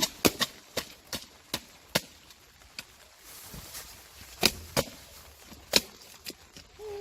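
A series of sharp, irregularly spaced knocks or clicks on a hard surface, about a dozen over several seconds, quickest in the first two seconds and sparser after.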